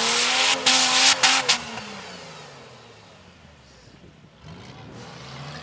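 An off-road 4x4's engine revving hard, with loud rushing bursts of noise over it for the first second and a half. The engine then drops back and runs quieter, and revs up again near the end.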